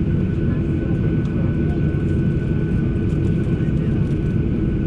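Steady cabin noise inside a Boeing 737 airliner: an even rumble from the jet engines and air systems, with a thin high tone held throughout and a few faint ticks. The loudness neither rises nor falls.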